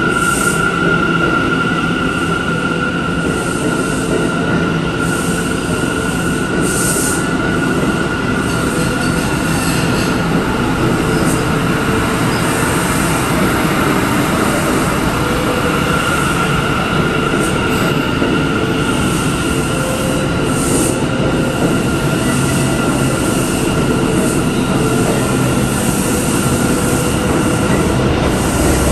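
New York City subway train running through a station, a loud steady rumble of wheels on rail with a high-pitched wheel squeal held throughout.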